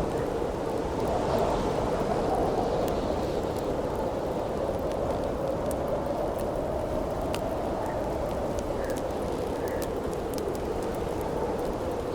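Wind howling steadily in a slowly swelling and easing drone, with sparse sharp crackles and pops from a burning wood campfire.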